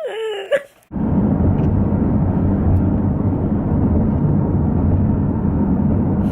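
A brief vocal sound, then steady road and wind noise of a moving car that cuts in suddenly about a second in.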